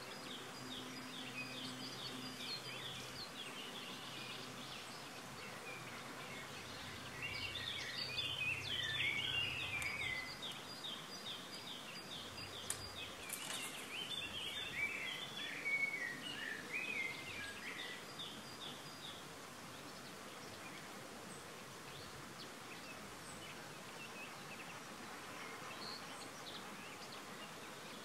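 Small birds singing and chirping against a steady outdoor hush. A lively stretch of rapid, repeated chirps and trills fills the middle, then the song thins out to occasional calls.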